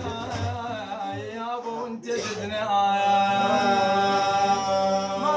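A male voice chanting a devotional madih melody unaccompanied, winding up and down in pitch, then, after a short break about two seconds in, holding one long steady note.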